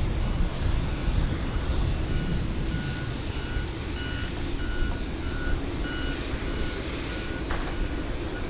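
Vehicle reversing alarm beeping steadily at one pitch, about two beeps a second, over a steady low rumble.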